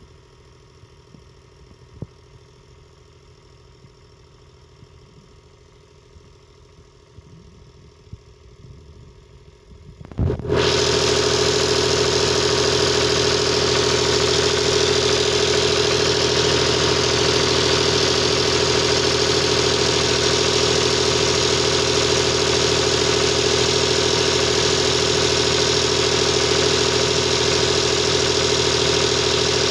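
Diesel generator engine cold-starting: after about ten seconds of low background noise with a couple of faint clicks, it catches abruptly and settles straight into loud, steady running at constant speed with a strong, even note.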